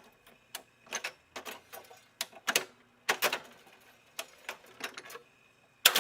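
An irregular series of sharp clicks and taps, about three or four a second, varying in loudness.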